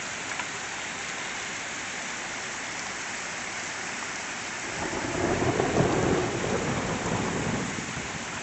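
Heavy rain falling steadily in a thunderstorm, with a rumble of thunder swelling about halfway through and dying away over a couple of seconds.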